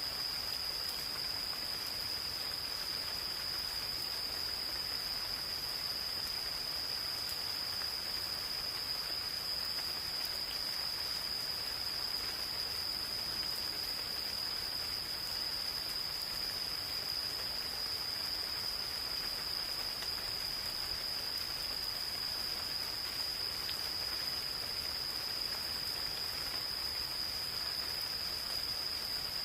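Gentle rain falling steadily in a forest, with a few faint drops ticking. Over it runs a continuous high-pitched trill of insects, unbroken and louder than the rain.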